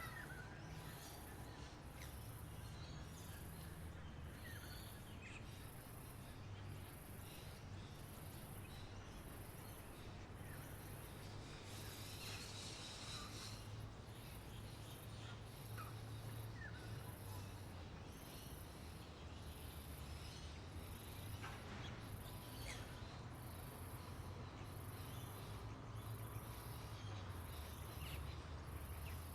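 Outdoor nature ambience: a very high insect call pulsing about once a second, with scattered short bird chirps over a steady low rumble.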